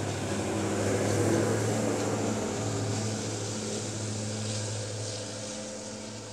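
Sri Lanka Railway S13 diesel multiple unit passing: a steady diesel engine drone with the rumble of the carriages' wheels on the rails. It is loudest about a second in, then fades as the rear power car moves away.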